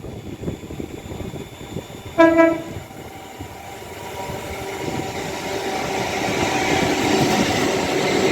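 A Class 805 Evero train sounds one short horn blast about two seconds in. Then its running and rail noise grows steadily louder as it approaches, passing slowly.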